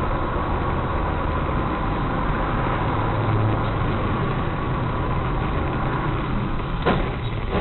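Steady vehicle engine and road noise, with a low drone and one sharp knock near the end.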